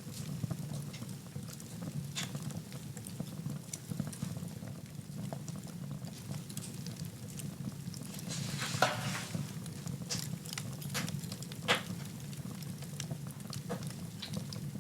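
Wood fire burning in a fireplace: steady low rumble of the flames with scattered crackles, a short hiss about nine seconds in, and two sharp pops, one near nine seconds and one near twelve.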